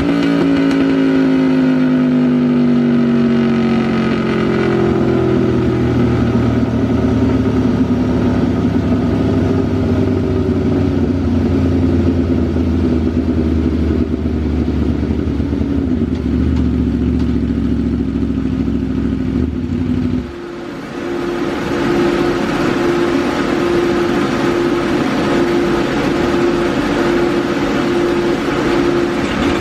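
Aprilia RSV4 Factory's V4 engine with a Racefit slip-on exhaust, running on a dyno: the revs fall over the first few seconds, then hold steady. About two-thirds of the way through the sound changes suddenly to a higher, steady pitch that holds until near the end.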